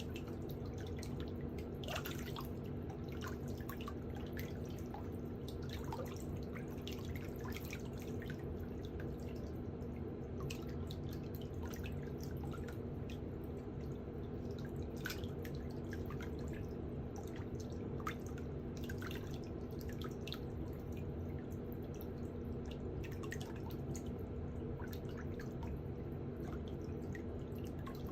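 Irregular small clicks and ticks of metal pedicure hand tools working on a toenail, over a steady low hum.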